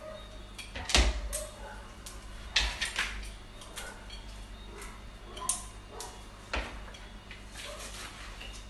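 Kitchen handling noise: a scattered series of knocks and clacks, the loudest about a second in, as items are set down and moved about.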